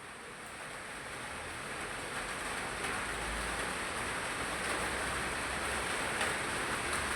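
Steady hiss of falling water that swells over the first three seconds or so, then holds steady.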